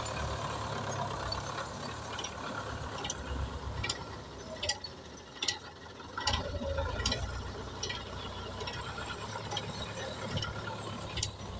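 Tractor engine running low, with irregular sharp metallic clicks and clanks over it, more of them in the second half.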